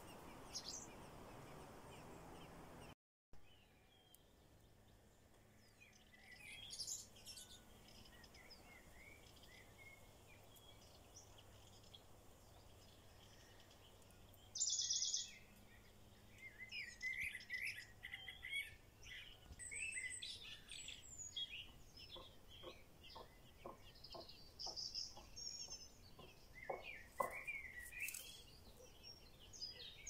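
Birds chirping and calling in short, scattered bursts, faint overall, with one louder call about fifteen seconds in.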